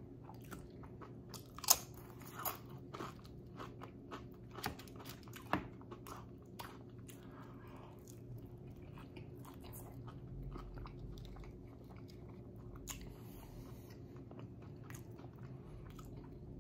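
Close-miked crunching and chewing of tortilla chips and a grilled quesadilla: several sharp crunches in the first six seconds or so, then quieter steady chewing.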